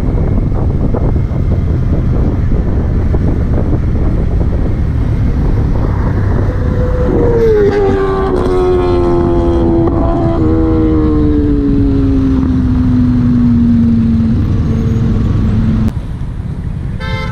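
Motorcycle on the move, with engine rumble and wind noise. In the middle an engine note falls slowly in pitch over several seconds, and near the end the level drops suddenly.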